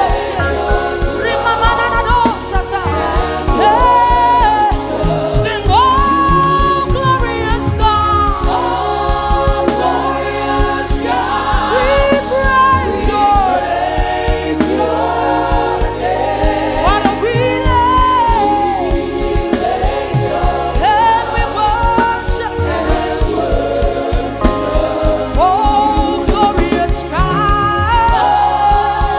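Live gospel praise-and-worship singing: a lead voice with backing singers over band accompaniment with bass and drums, going on without a break.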